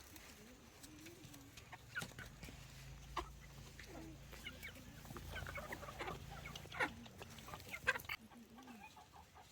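Chickens clucking in short, scattered calls, with a few sharp knocks.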